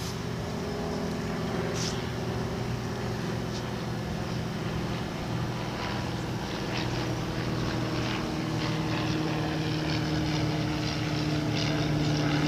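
A steady motor drone with an even, humming pitch that shifts slightly partway through.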